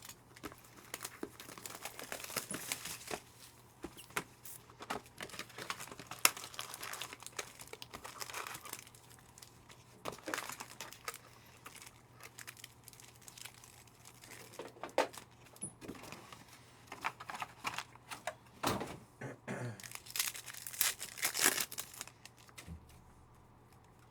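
Plastic wrapping being torn and crinkled as a sealed box of trading-card packs is opened and the packs unwrapped: irregular crackling and rustling with short tearing sounds.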